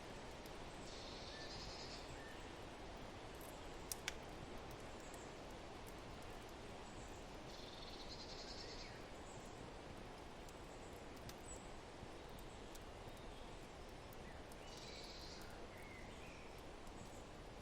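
Forest-and-fireplace ambience: a steady hiss of wind and fire under scattered small crackles, with one sharp pop about four seconds in. A bird trills three times, several seconds apart.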